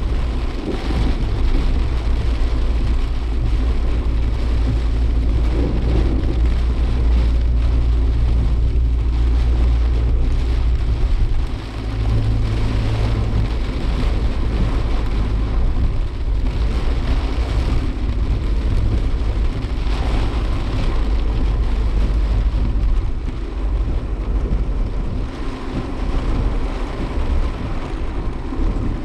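Suzuki Jimny Sierra driving through typhoon rain and wind: a steady low rumble of the engine and road with the hiss of rain and wind over the body.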